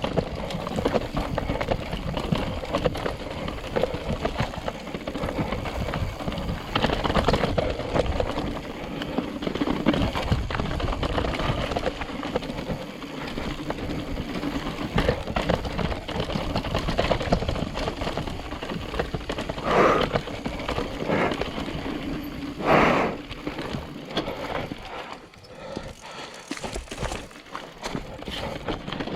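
Mountain bike ridden over a rough dirt trail: a steady rattle of the chain and frame, tyres crunching over rocks and roots, and wind noise. Two louder bursts come about twenty and twenty-three seconds in.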